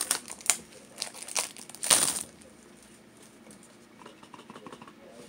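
Plastic wrapping crinkling and tearing in the hands: a run of sharp crackles over the first two seconds, the loudest tear at about two seconds, then only faint light ticks.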